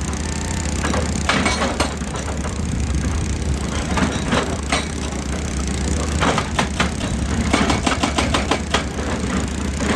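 Excavator engine running steadily while the machine works rocky ground, with irregular bursts of cracking and crunching as rock and soil break up.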